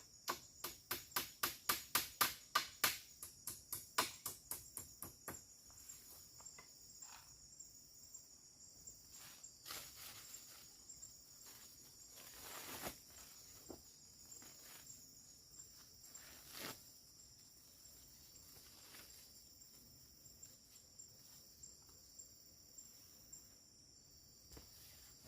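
Steady high drone of forest insects, with a quick series of sharp knocks, about three a second, over the first five seconds, then scattered single knocks and rustles.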